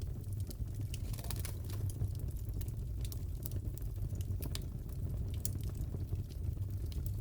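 Crackling wood fire in a fireplace: irregular sharp pops and snaps over a steady low rumble.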